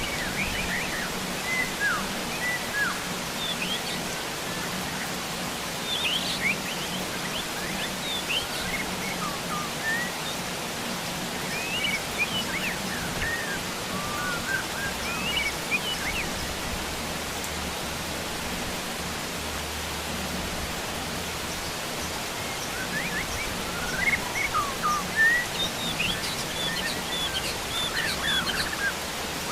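Heavy rain falling steadily, with wild birds chirping in scattered bursts throughout, busiest near the end.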